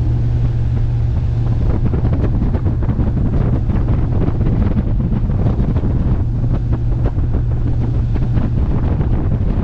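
Bass boat's outboard motor running steadily under way, a constant low drone under heavy wind buffeting on the microphone.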